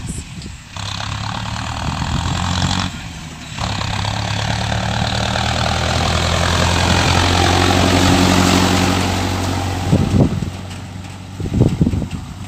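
Diesel engine of a Mahindra Arjun Novo 4×4 tractor running steadily, growing louder over several seconds and then easing off. A few short, sharp noises break in near the end.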